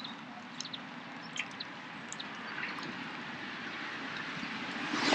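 Steady hum of traffic from a nearby road, swelling over the last couple of seconds as a vehicle approaches, with a few faint small ticks or drips over it.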